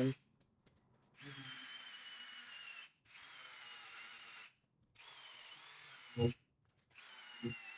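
Power drill spinning an abrasive scouring pad in four short runs of about a second and a half each, a thin high whine that sags slightly during each run, scrubbing old silicone and oil off an engine block's sump face. A single sharp knock about six seconds in.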